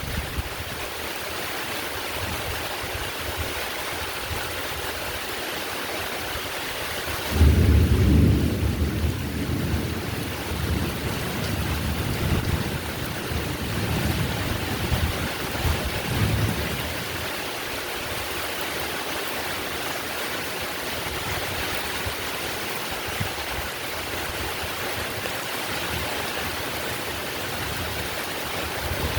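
Steady heavy rainfall hissing, with a roll of thunder that breaks suddenly about seven seconds in and rumbles on, fading in waves, for about ten seconds.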